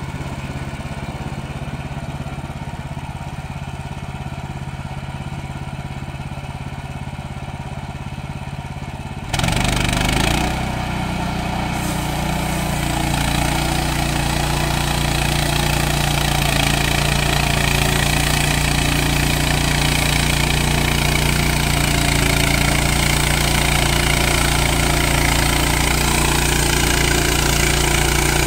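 Portable band sawmill's petrol engine running steadily at low speed, then about nine seconds in it speeds up with a sudden jump in loudness. A steady hiss joins it and keeps going as the band blade saws through a log.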